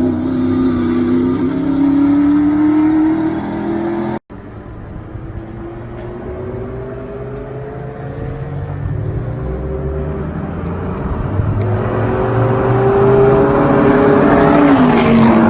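Race car engine accelerating hard, its pitch climbing steadily. A break comes about four seconds in, then another long climb, and the pitch drops sharply near the end.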